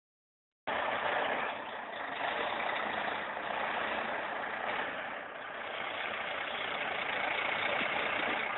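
Tractor engine running steadily. The sound cuts in suddenly just under a second in.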